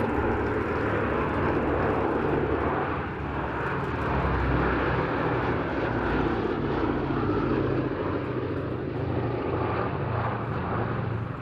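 Boeing B-17G Flying Fortress's four Wright Cyclone radial engines droning as the bomber flies its display, a steady sound with a pulsing low hum; the higher part of the sound fades in the second half.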